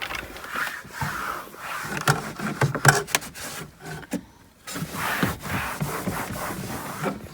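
E-Cloth microfibre cloth rubbing over a car's interior plastic trim: a scratchy wiping sound in strokes, mixed with small knocks and clicks, with a short pause about four seconds in.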